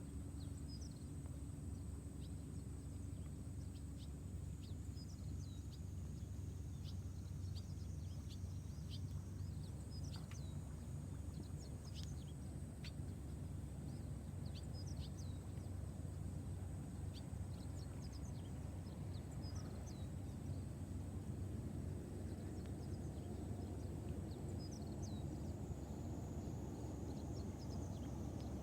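Steady low background rumble with a faint high whine, and frequent short high chirps of small birds.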